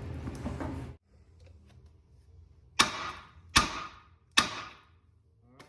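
Three sharp knocks about 0.8 s apart, each with a short ringing tail, typical of hammer blows on metal suspension parts. A faint click follows near the end.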